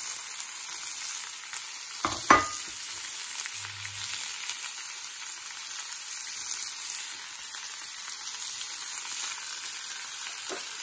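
Chopped vegetables sizzling in hot olive oil in a frying pan, a steady hiss. A sharp clatter about two seconds in, with a faint click near the end.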